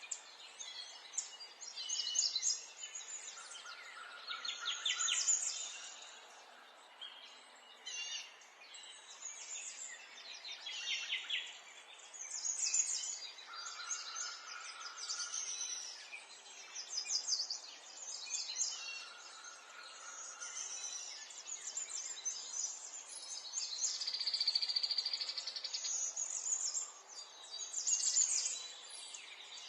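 Small songbirds singing and chirping, several at once, with rapid trills and repeated high calls coming and going every second or two over a faint steady outdoor hiss.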